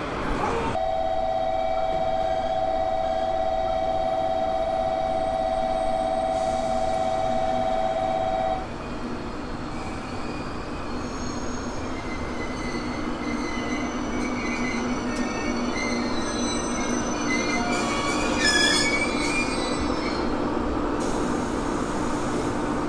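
Electric train at a station platform. A steady two-tone electronic signal holds for about eight seconds, then cuts off, leaving the train's motor hum. A brief high metallic squeal from the wheels comes about eighteen seconds in.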